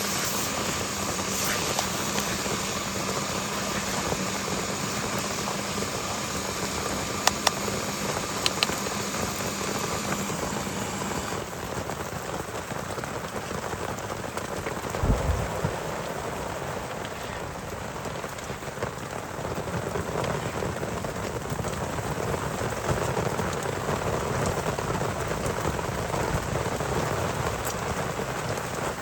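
Heavy rain falling steadily. A steady hum runs under it for the first third and then stops, and a brief low thump comes about halfway through.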